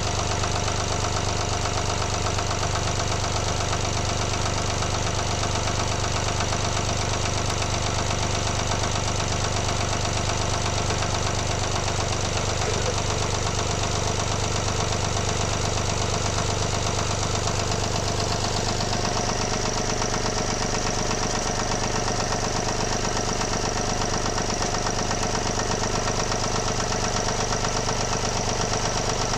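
Volvo D17C three-cylinder diesel engine idling steadily, running with a newly replaced valve spring. About two-thirds of the way through, its note changes slightly.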